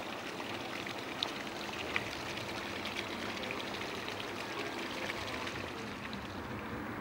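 Harbour water lapping and trickling around moored boats: a steady splashing with small clicks and ticks.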